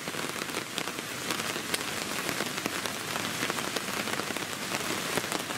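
Heavy rain falling steadily on a tarp shelter and the woodland around it: a dense patter of individual drops over a continuous hiss.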